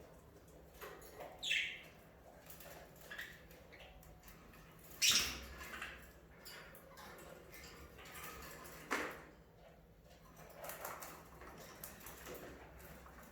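Budgerigars giving short, scattered chirps, one falling in pitch near the start, with louder bursts about five and nine seconds in.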